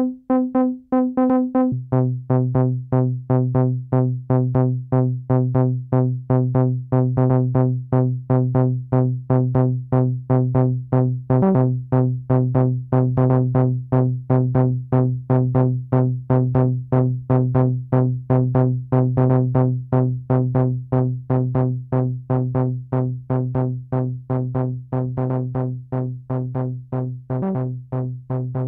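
Malekko Manther analog monosynth playing a looping sequence of short, repeated pitched notes, about four a second. About two seconds in, a strong low bass tone comes in beneath the notes and holds.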